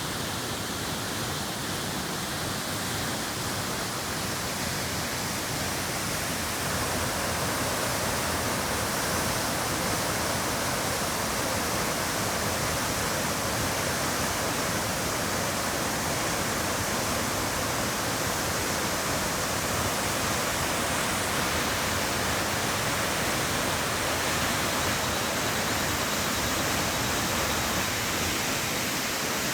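Steady rushing of Jōren Falls, a 25 m waterfall plunging into its pool, an even unbroken roar of falling water.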